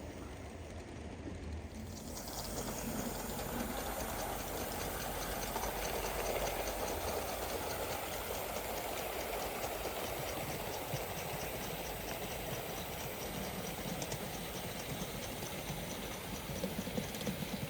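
Gauge 1 live-steam model locomotive running, a steady steam hiss with a fast, even patter of light ticks, getting louder about two seconds in.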